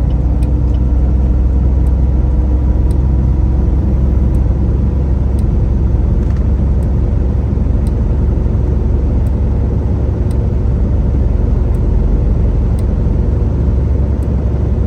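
Semi truck under way, heard from inside the cab: a steady low drone of diesel engine and road noise, with faint light ticks about once a second.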